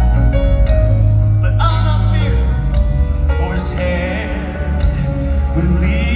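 Southern gospel quartet music played live: male voices hold long notes with vibrato over an instrumental accompaniment, and new vocal lines come in near the end.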